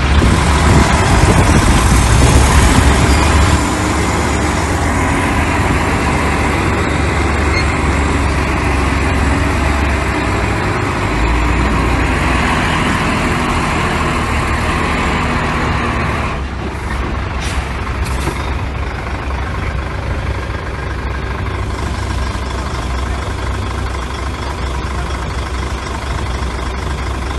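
Heavy diesel construction machinery running, a deep engine rumble that is loudest for the first few seconds and then settles to a steadier level, easing slightly about sixteen seconds in.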